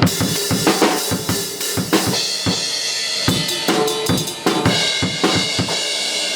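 Drum kit played live: kick drum, snare and cymbals struck in an uneven run of hits, with cymbals ringing between them, as in a pre-set soundcheck.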